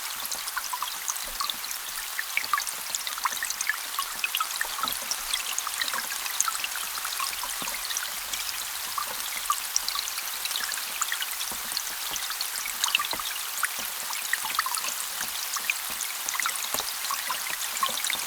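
Rain falling on a lake, heard through an underwater hydrophone: a steady high hiss sprinkled with countless tiny pings from the drops and the small air bubbles they make at impact.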